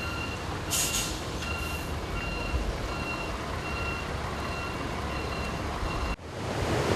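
Reversing alarm of a truck or construction vehicle beeping steadily, about one and a half beeps a second, over engine and background rumble, with two short hisses near the start. About six seconds in it cuts off abruptly to a steady rushing of floodwater.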